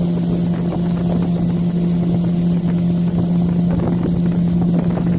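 Motorboat engine running steadily under way, holding one even pitch with no change in speed.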